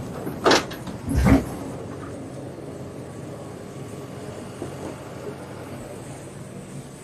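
Demolition bulldozer running steadily, with two loud bangs about a second apart near the start, the second one deeper and heavier.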